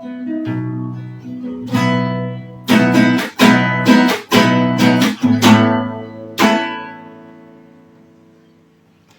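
Guitar closing out a piece: a few picked notes, then a run of strummed chords. A last chord rings out and slowly fades away.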